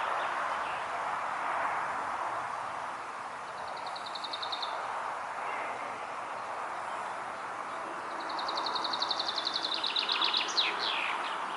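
Steady outdoor wind noise. Over it a songbird sings a fast trill twice: a short one about a third of the way in, and a longer one near the end that finishes in a few quick falling notes.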